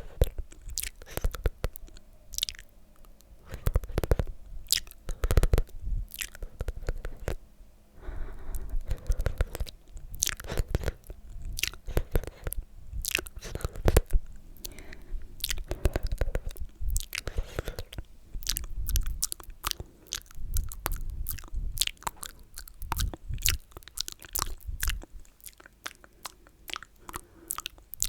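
Close-miked ASMR mouth sounds: wet, sticky lip and tongue smacks, kisses and slurps, coming as a dense, irregular run of clicks.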